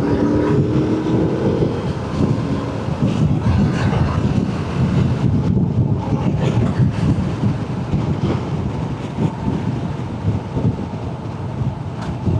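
Motorcycle riding at speed: wind buffeting the microphone over engine and road noise. An engine note climbs slightly in the first two seconds.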